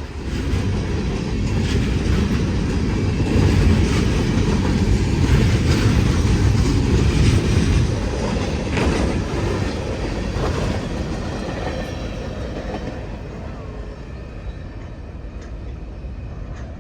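Freight train of box cars and tank cars rolling past as it gathers speed, the wheels clacking over the rail joints above a steady rumble. The rumble is loudest a few seconds in and slowly eases toward the end.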